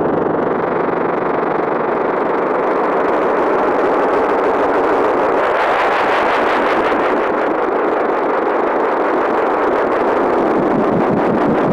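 Erica Synths Perkons HD-01 drum synthesizer playing a dense, gritty, engine-like rumbling texture. It grows brighter about halfway through, with a fast, even pulse running through it.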